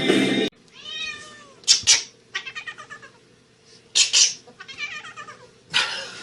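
A cat meowing several times: drawn-out calls that rise and fall in pitch, a quick run of short stuttering notes, and a few short harsh bursts in between.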